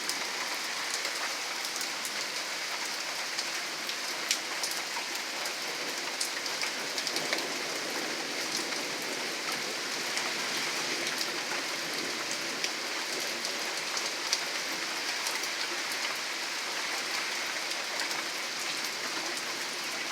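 Steady rain falling and pattering on surfaces, with scattered sharp drop ticks over an even hiss.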